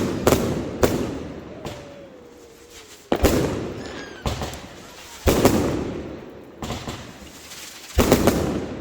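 Fireworks display: about six sharp bangs of shells bursting overhead, each followed by a rolling, echoing rumble, with a brief whistle in the middle.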